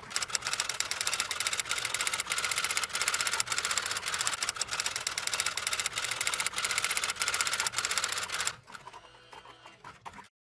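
A small machine running with rapid, dense mechanical clicking and a steady whine, which stops suddenly about eight and a half seconds in, leaving fainter scattered clicks before it goes quiet.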